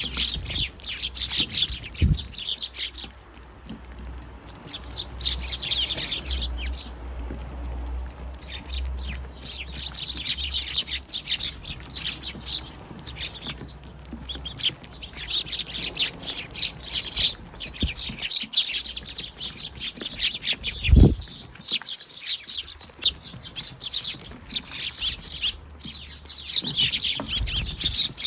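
A flock of Eurasian tree sparrows, young fledglings among them, chirping in busy bouts of a few seconds that rise and fall. There is one short dull thump about two-thirds of the way through.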